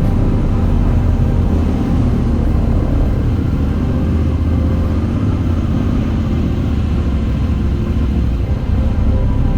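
Moto Guzzi V85TT's air-cooled transverse V-twin running steadily under way, with road and wind noise, at an even level throughout.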